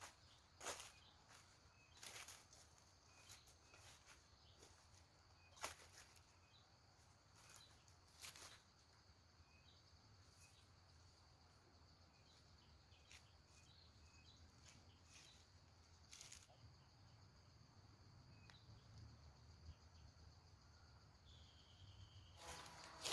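Faint outdoor ambience: a steady high insect drone, with scattered brief clicks and rustles and a few faint chirps.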